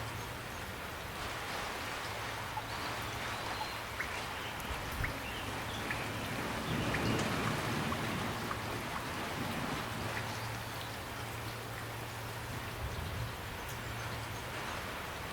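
Steady gentle rain falling, with scattered individual drops ticking.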